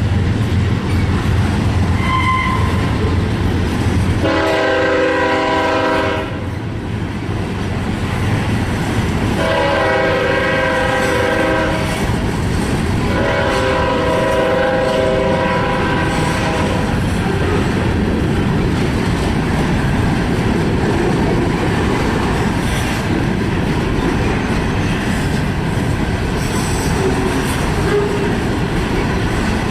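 A diesel freight locomotive's horn sounds three separate blasts, each longer than the last, over the steady rumble of the passing train. The horn then stops and the train keeps rolling by with continuous wheel-on-rail noise.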